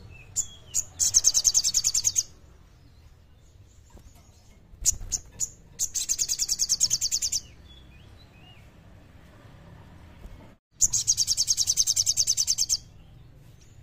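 Sogon songbird singing: three fast, high-pitched trills of rapidly repeated notes, each lasting about one and a half to two seconds and led in by a few short sharp chips.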